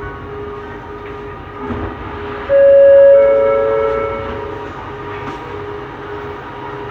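Running noise of a Bombardier Innovia Metro 300 LRT train with a steady motor whine. About two and a half seconds in, a train horn sounds loudly: two overlapping tones that fade out over about two seconds.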